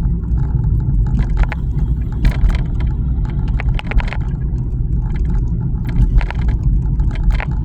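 Steady low road and engine rumble inside a moving car, with scattered short clicks and knocks.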